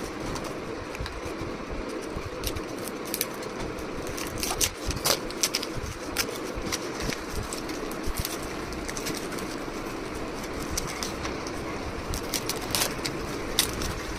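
Gift packaging being handled and opened by hand: irregular sharp clicks and crinkles over a steady background noise.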